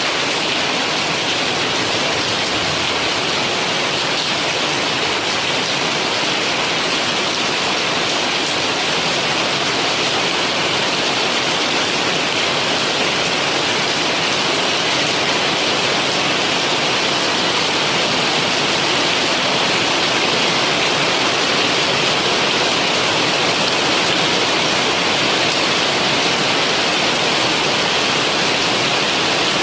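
Steady rain falling: an even, unbroken hiss of water with no thunder and no single drops standing out.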